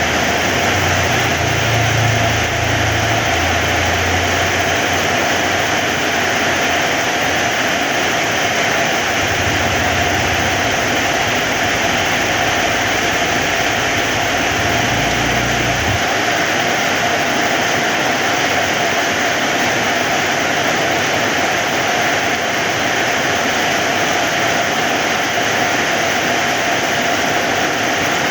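Heavy rain falling steadily, a dense even hiss. A low rumble sits under it through the first half and stops about halfway through.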